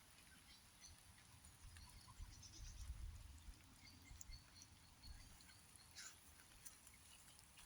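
Near-silent pond-side ambience: a faint low rumble that swells briefly about two seconds in, with scattered faint ticks and a few tiny high chirps.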